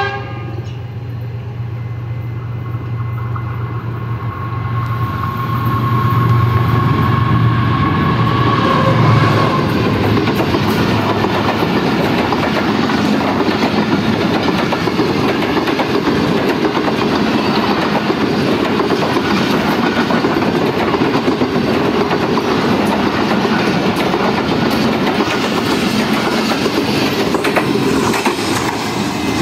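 A Pakistan Railways diesel locomotive approaches and passes close by, its engine drone growing louder over the first several seconds. A long train of passenger coaches then rolls past, with a steady rumble and clickety-clack of wheels over the rails.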